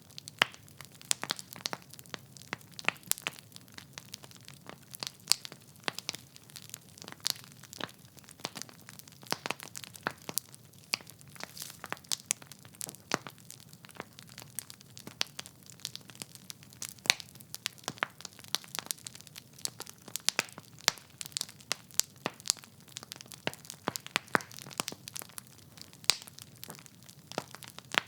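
Wood fire burning in a fireplace: logs crackling and popping with irregular sharp snaps over a low, steady hiss of the flames.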